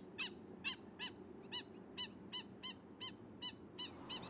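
A bird calling a steady series of short, arched notes, about three a second.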